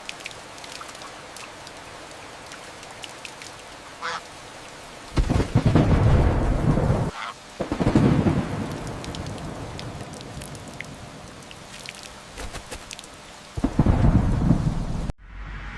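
Steady rain with thunder rumbling three times, starting about five, eight and fourteen seconds in. A duck quacks once, briefly, about four seconds in.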